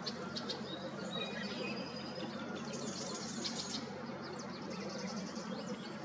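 Small birds chirping in short, high calls, in two clusters: one in the first two seconds and another around three to four seconds in. Under them runs a steady outdoor hiss with a low hum.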